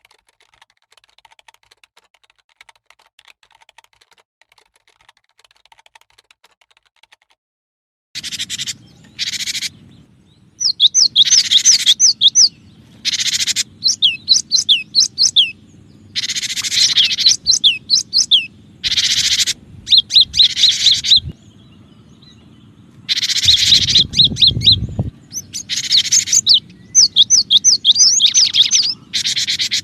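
Cinereous tit singing: phrases of quick, repeated high whistled notes, each lasting a second or two with short gaps between. The song is faint for the first several seconds and loud from about eight seconds in, over a low hum, with a brief low rumble a little past the middle.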